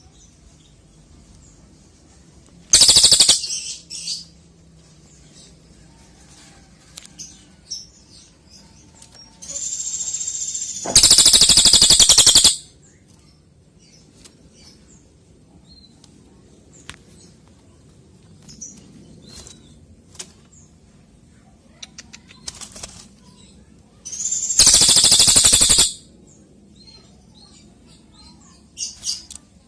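A cililin songbird singing in three loud, rapid trilled bursts of about a second or so each, spaced far apart, with scattered short chirps between them.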